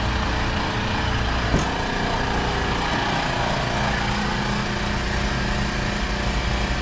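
Condensing section of an R290 refrigeration unit running steadily, condenser fan and compressor humming together, with a single click about a second and a half in.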